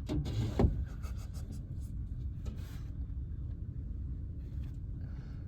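Tractor engine running as a steady low rumble under a load of two round bales on the bale grabber, with a few brief rustles and knocks in the first second.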